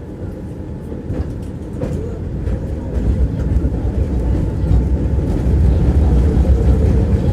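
Tram running along the rails, heard from inside the car: a low rumble of wheels on track that grows louder from about three seconds in as it gathers speed. There are two sharp knocks in the first two seconds, and a faint motor whine rises in pitch near the end.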